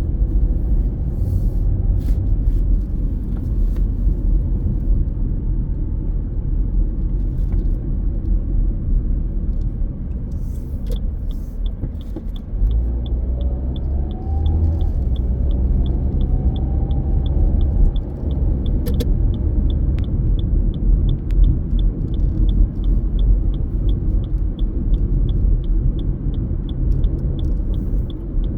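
Car driving, heard as a steady low rumble of road and engine noise. From about eleven seconds in there is a regular high-pitched ticking, a little over two ticks a second.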